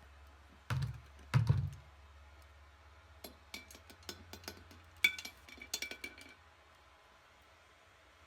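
Two heavy knocks, then a scattered run of light metallic clicks and clinks, a few with a short ring: metal hand tools and small parts being handled and set down on the wheel restoration bench.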